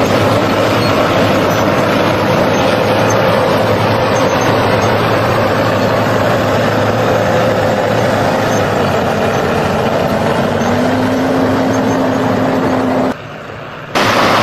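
Heavy tractor engine running steadily under load, with a constant hum. A higher steady tone joins about two-thirds of the way through, and the sound drops away sharply for under a second near the end before returning.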